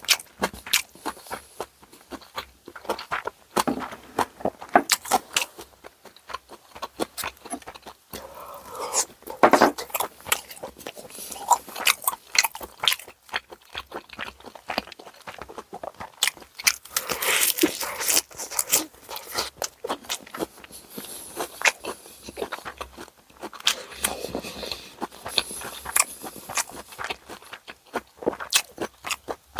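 Close-up eating sounds: wet chewing and crunchy bites, with irregular clicks and smacks of mouth and food throughout.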